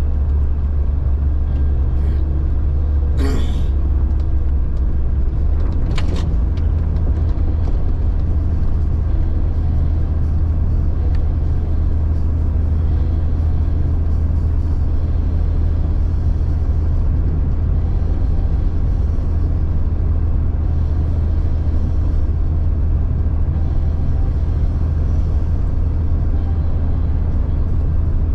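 1999 Jeep Cherokee XJ driving, a steady low rumble of engine and drivetrain throughout. A brief wavering squeal comes a little over three seconds in, and a sharp knock about six seconds in.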